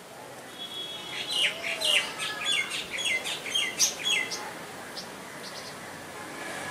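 A bird chirping a quick run of short falling notes, with a few fainter chirps after it, over a faint background hiss.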